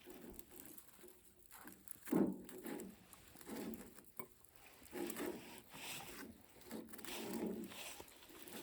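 Close-up mouth sounds of someone chewing food, in irregular bursts about once a second, with the loudest a little over two seconds in.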